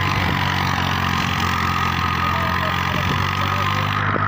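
Tractor engine running steadily at an even speed, with a thin steady whine alongside.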